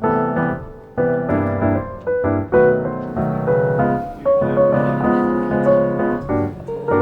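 Background piano music: a melody of struck notes with chords underneath, at an easy, steady pace.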